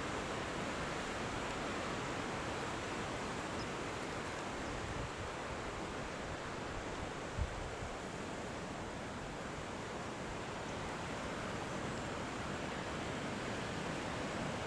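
Steady outdoor rushing background noise, with one short low bump about seven and a half seconds in.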